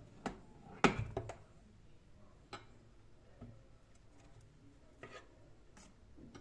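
Scattered light clicks and knocks of kitchenware being handled, the loudest about a second in, then a few fainter taps spaced a second or so apart.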